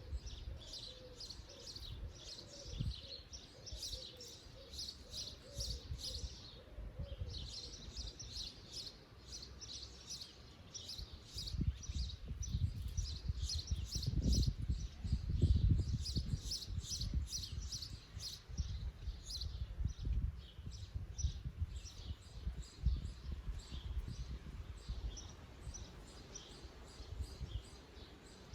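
Birds singing, with many quick high chirps and twitters overlapping. A low rumble runs underneath and grows louder about halfway through.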